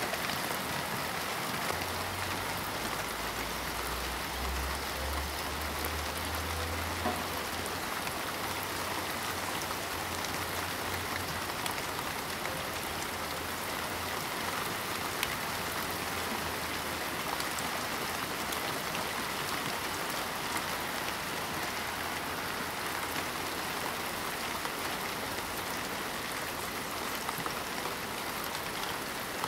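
Steady rain falling on parked cars, with a few louder single drops. A low rumble sits under the rain from about two seconds in until about eleven seconds in.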